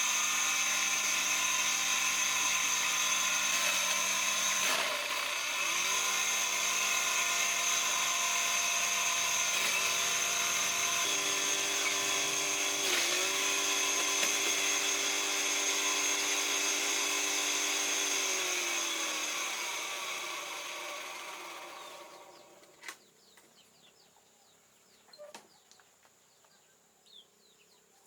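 A small motor-driven machine running loudly at a steady pitch, dipping briefly twice as if loaded, then winding down and stopping about three-quarters of the way through. A few faint knocks follow.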